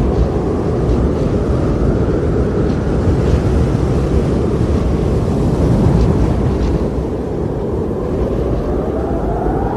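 Steady, loud rumbling wind noise, with a tone rising in pitch coming in near the end.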